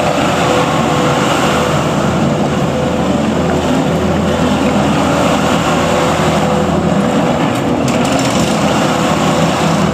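The 74 hp FPT diesel engine of a 2015 New Holland C227 tracked skid steer loader running steadily.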